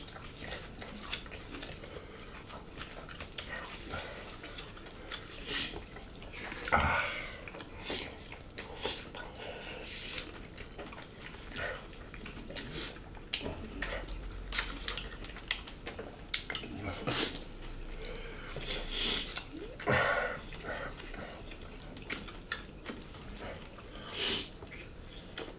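Close-up eating sounds of two people eating by hand: wet chewing, lip smacks and mouth clicks scattered throughout.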